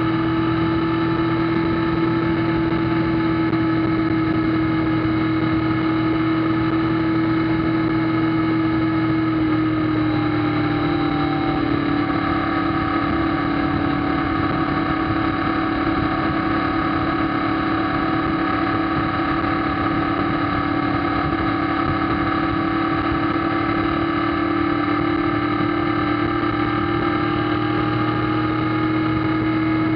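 Kawasaki ZZR1400's inline-four engine running steadily while riding at cruising speed, over a haze of wind and road noise. Its pitch sinks slightly about ten seconds in and rises again near the end.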